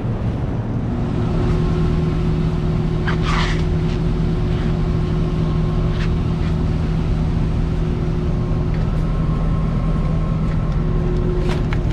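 Commercial air-conditioning unit running with a steady mechanical hum, with a few short clicks and scrapes of handling. Only its second stage is running: the first-stage compressor is off, the fault being chased.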